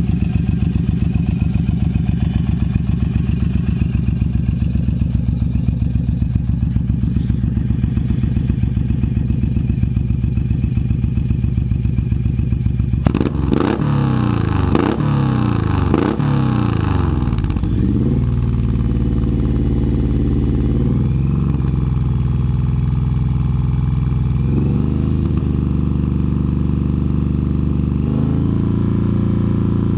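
2008 Suzuki C109R's 1783 cc V-twin through a G-Pipe aftermarket exhaust, idling with an even pulse, then revved up and down about four times in quick blips around the middle. After that it holds a steadier, higher engine speed that steps up slightly a few times.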